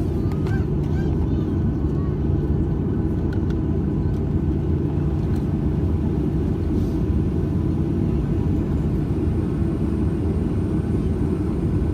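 Cabin noise inside a Boeing 737-800 with its CFM56 engines idling: a steady low rumble with a faint constant hum.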